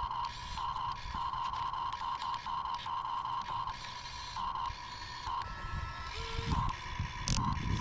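Electric gear motors of a Huina 1550 RC excavator whining in short on-off spurts as its arm and bucket are worked, with a sharp click near the end.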